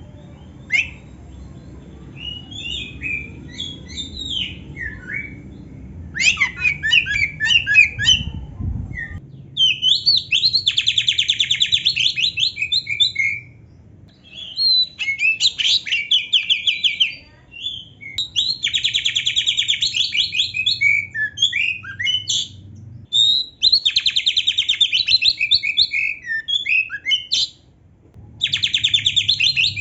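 Oriental magpie-robin (kacer) singing: scattered whistled notes, then a run of fast rattling trills repeated several times with short breaks between them. The trills are canary-style fill-ins learned by the bird. A low rumble lies under the first part and stops about nine seconds in.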